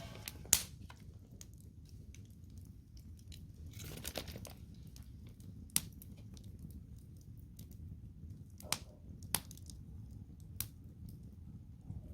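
Wood campfire burning with a low steady rumble and crackling: a handful of sharp pops and snaps, the loudest just after the start, and a short burst of crackling about four seconds in.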